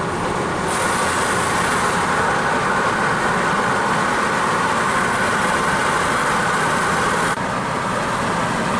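Steady road and wind noise of a car driving. The hiss brightens under a second in and drops back abruptly near the end.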